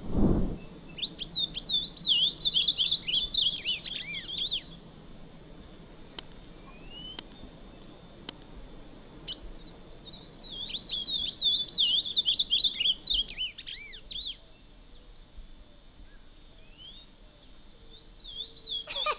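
Ultramarine grosbeak singing: two runs of quick, warbled high notes, one starting about a second in and another about ten seconds in, with a few faint single notes after.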